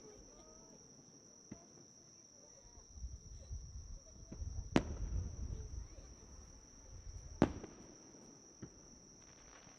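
Fireworks bursting overhead: two loud sharp bangs about five and seven and a half seconds in, with a few fainter cracks and a low rumble around the first. Insects chirr steadily and high-pitched underneath.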